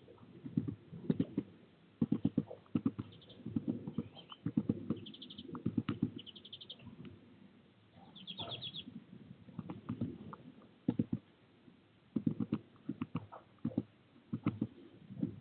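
Rapid clusters of dull taps and scrabbling from a bird at the feeder close to the microphone, with several short runs of quick high chirps in the middle.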